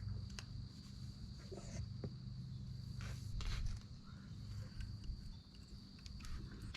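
Faint, scattered knocks and clicks of metal engine parts being handled, over a steady low hum and a constant high-pitched tone.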